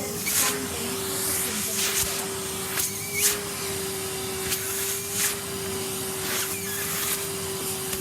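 Henry vacuum cleaner running with a steady motor whine, with brief hissing rushes every second or so as the nozzle sucks up dust.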